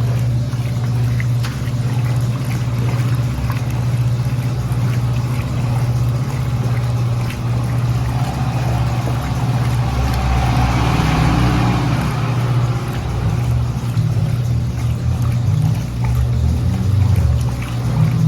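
Brastemp Linea Verona 4 kg washing machine agitating a load of clothes in water: a steady motor hum with water sloshing, the sloshing swelling about halfway through.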